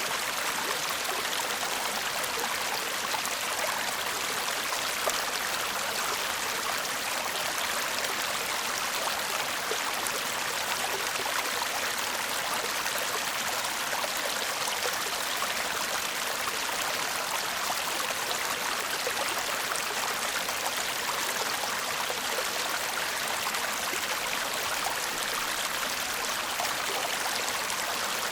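A shallow stream babbling steadily over stones, a constant bright splashing and gurgling of water.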